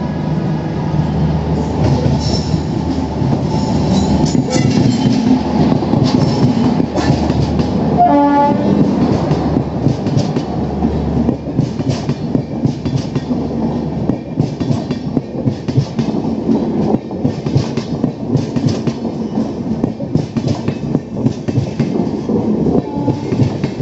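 WAP7 electric locomotive hauling a passenger express past at speed with a steady rumble and hum, and a short horn blast about eight seconds in. Then the coaches run by with a rapid clickety-clack of wheels over rail joints.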